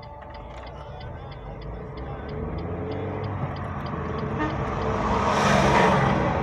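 Car running on a road, heard from inside, with an indicator clicking steadily about three times a second. A passing vehicle, likely the oncoming tractor-trailer, rushes by, swelling to its loudest about five and a half seconds in and then fading.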